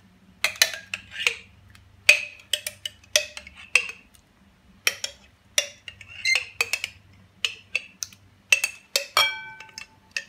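A spoon tapping and scraping against a dish while mayonnaise is spooned out: a run of irregular sharp clinks and knocks, some with a short ring.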